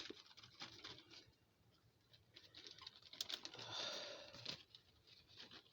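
Faint kitchen handling: soft rustling and light clicks and taps, swelling briefly to a louder rustle in the middle, as cheese is put onto a lasagna being assembled.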